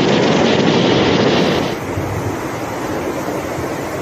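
Loud, steady roar of rushing floodwater, with wind noise on the microphone. About one and a half seconds in, the roar drops and turns duller.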